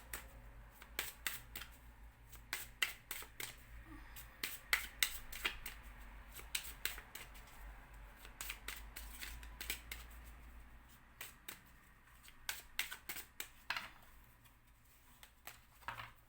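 Lenormand cards being shuffled and handled: a long run of sharp, irregular clicks and snaps, sparser near the end.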